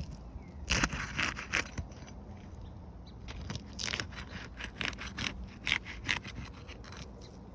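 Roof snake (shingle-removal bar) scraping under asphalt shingles in a series of short strokes, loudest about a second in and again in a run between three and six seconds. The tool is unsealing the brittle shingle and nearly rips through it.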